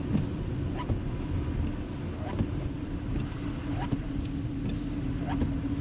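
Vehicle travelling on a snowy road: a steady low rumble of road and engine noise, with a faint tick about every second and a half.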